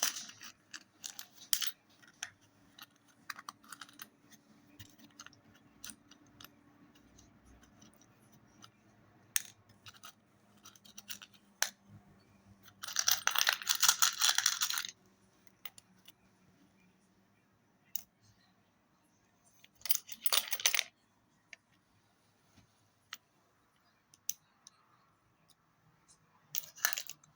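Scattered clicks and taps of small hard objects being handled, with a dense rattling clatter lasting about two seconds around the middle and two shorter clatters later.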